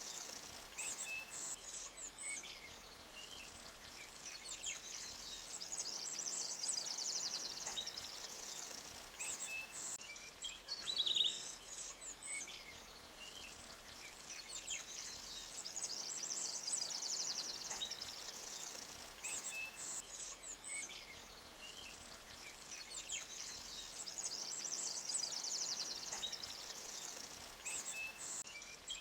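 Forest ambience of songbirds trilling and chirping over a faint, steady wash of stream water, with one sharper chirp about eleven seconds in. The same bird phrases come round again about every 18 seconds.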